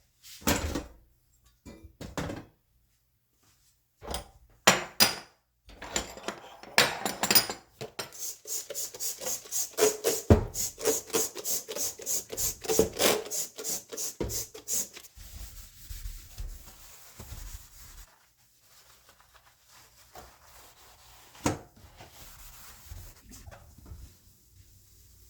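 A few knocks and clatters, then a run of rapid, even rubbing or scraping strokes, about four or five a second, lasting several seconds before it stops, followed by quieter handling with a single knock.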